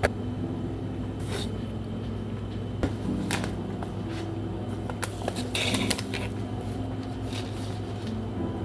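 Rustling and light clicks of things being handled, with a louder rustle about two thirds of the way through, over a steady low hum.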